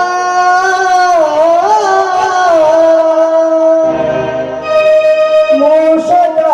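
Naman devotional song invoking Ganpati: a voice holding long notes that slide and waver in pitch, over instrumental accompaniment.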